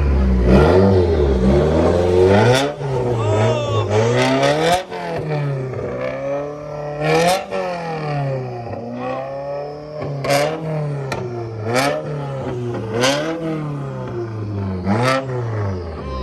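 Subaru STI's flat-four boxer engine, straight-piped with no mufflers, being free-revved again and again, its pitch climbing and falling every second or two. Sharp cracks come at several of the revs.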